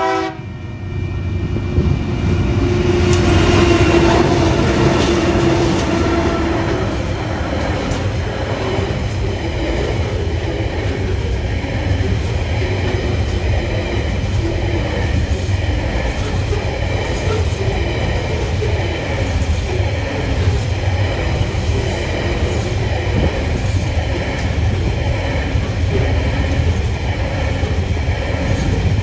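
Tasrail diesel freight locomotives TR14 and TR08 passing close by: the last of a horn blast cuts off right at the start, then the locomotives' engines are loudest from about two to seven seconds in. After that, a steady rumble of loaded container wagons rolling past on the rails.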